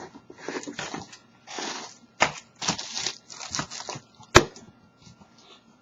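Packaging being handled and torn open, a run of irregular crinkling and rustling bursts with one sharp snap a little over four seconds in.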